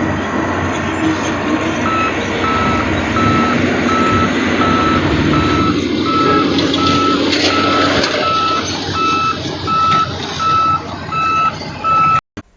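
A heavy truck's engine running with its reversing alarm beeping, about two beeps a second, starting about two seconds in.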